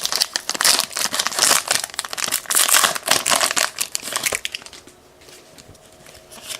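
A 2019 Bowman Platinum trading-card hanger pack's wrapper crinkling as it is torn open and handled. It goes quiet about four and a half seconds in, leaving only a few light clicks.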